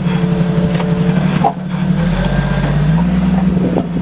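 Jeep Cherokee XJ engine running steadily at low revs under crawling load, its pitch stepping up a little about three seconds in.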